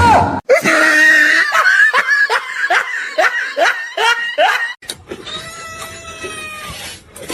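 Loud, hard laughter in rapid repeated bursts for about five seconds, then a long steady held note near the end.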